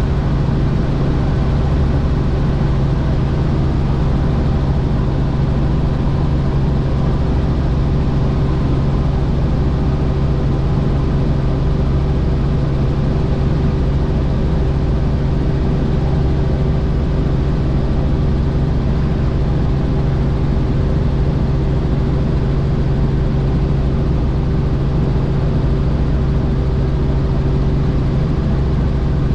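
Helicopter in flight: a loud, steady drone of rotor and engine with low, unchanging hums.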